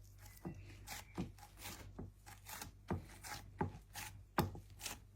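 Irregular sharp taps and knocks of food preparation on a board, about two a second, with light rustling between them.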